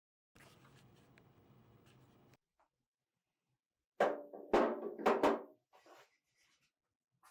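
A faint hiss for about two seconds, then four sharp knocks in quick succession about four seconds in, each with a short ringing.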